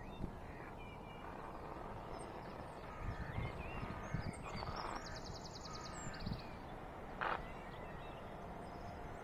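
Small birds chirping, with a fast trill about five seconds in, over a low steady rumble.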